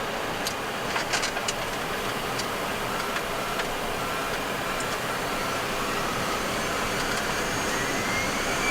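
Boeing 737-300 cockpit with its CFM56-3 jet engines spooling up for takeoff: a steady rush of noise with an engine whine that climbs in pitch over the last few seconds. A few clicks come about a second in.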